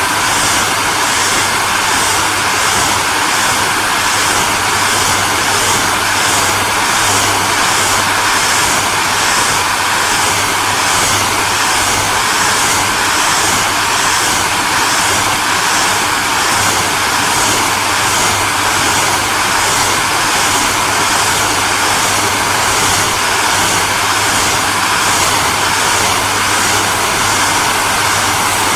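Hairdryer running steadily: a constant blowing hiss over a low motor hum, with a faint regular flutter in the high hiss about twice a second.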